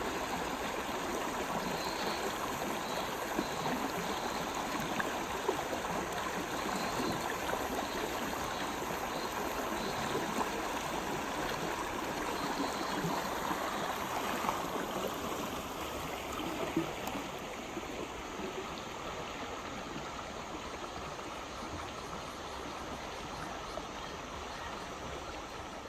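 River water running over rocks in a steady babbling rush, a little quieter from about two-thirds of the way through.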